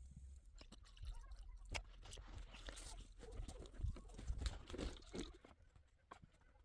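Faint, irregular crunching steps in snow.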